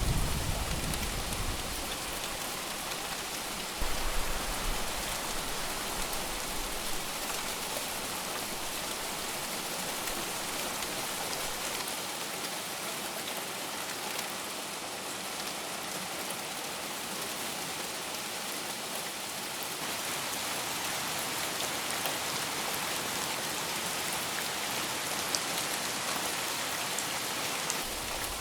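Steady heavy rain pattering on surfaces. The tail of a low thunder rumble fades out at the start, and a shorter distant rumble comes about four seconds in.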